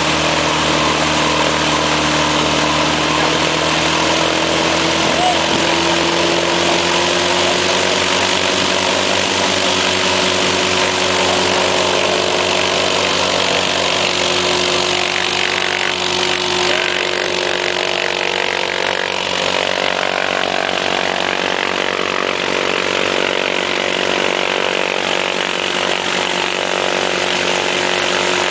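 Homebuilt light airplane's piston engine and propeller running steadily on the ground, its pitch rising a little about five seconds in and then holding.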